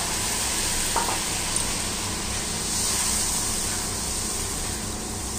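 Ground masala paste sizzling as it fries in hot oil in a kadai, stirred with a steel spatula, with a steady hiss and a light click about a second in.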